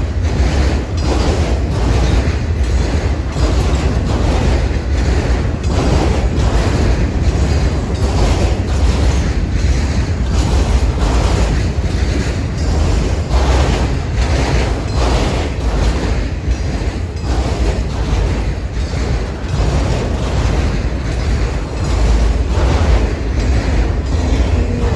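CSX freight train Q264 rolling past, a steady heavy rumble with its cars' wheels clicking over the rail joints at a regular beat.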